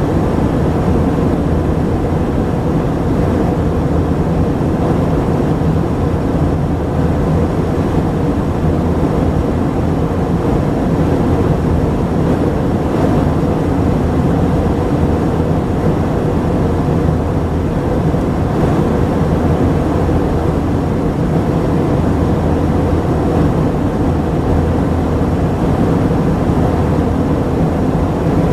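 Steady cabin noise of an Airbus A319-132 in flight: its IAE V2500 engines and the rush of air past the fuselage, with a faint steady hum underneath.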